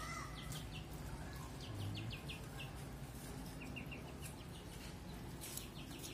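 Birds chirping: short, high chirps in quick runs of two to four, over a low steady rumble.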